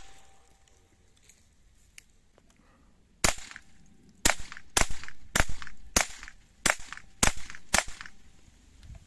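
A string of eight .22 LR shots fired rapidly from a Umarex Hammerli TAC R1 semi-automatic carbine, about two a second, starting about three seconds in.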